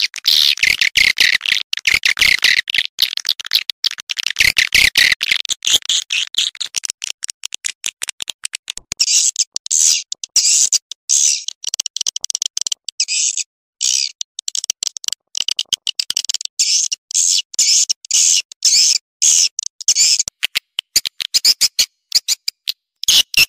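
Recorded swiftlet calls: a dense, rapid chattering twitter that shifts to a higher, brighter twitter about nine seconds in. It is a swiftlet lure sound, played to call swiftlets in.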